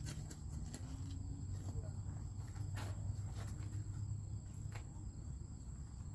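Low steady rumble with a faint, steady high-pitched whine, broken by a few light knocks.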